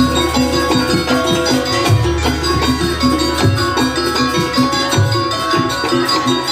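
Live Banyuwangi traditional ensemble music for a barong/jaranan dance: drums and tuned metal percussion playing a steady repeating rhythm, with a deep low note struck about every three seconds.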